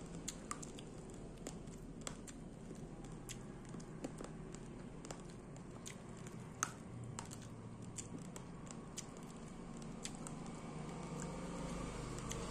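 Raw rice grains being chewed: sharp, irregular crunches and clicks, a few a second, over a low steady hum.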